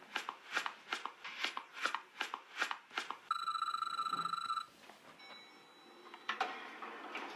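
Added sound effects: a quick run of short scraping or scuffing strokes, about three a second, then a steady electronic buzzing tone for about a second and a half. A fainter hiss with a few faint tones follows near the end.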